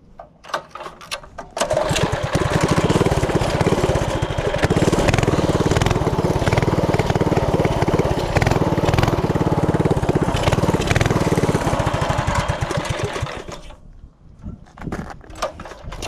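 Tillotson 212 single-cylinder four-stroke engine on a Coleman CT100U mini bike running loud and steady for about twelve seconds. It comes in abruptly about a second and a half in and drops away near the end, with a few clicks before and after.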